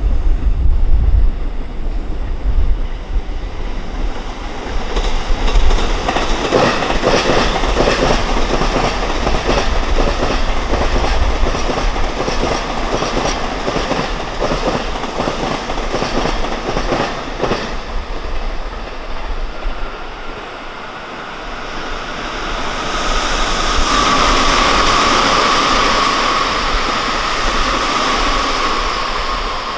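A train passing close by, its wheels clacking over rail joints in a quick, even rhythm for about twelve seconds. After a short lull, a second rush of rail noise rises with a steady high whine near the end.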